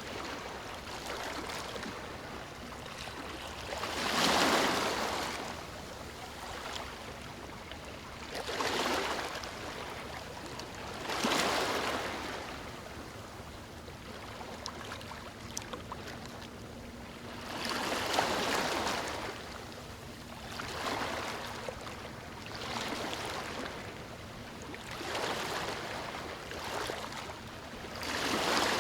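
Small ocean waves breaking on a beach, one after another, each a swelling rush of surf every few seconds over a steady hiss of water.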